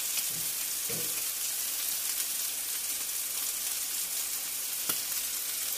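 Steady sizzle of food frying in a pan, with a faint click near the end.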